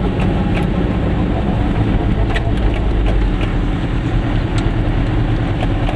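A Goggomobil's air-cooled two-stroke twin engine running, heard from inside the small car as a steady low drone, with a few light rattles and ticks.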